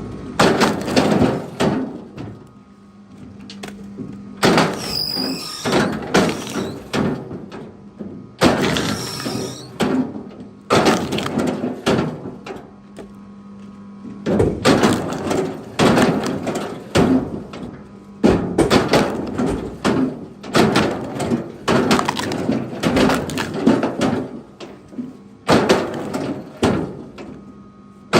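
Pieces of firewood being thrown one after another onto a wood pile, each landing with a sharp wooden clatter, about one every second.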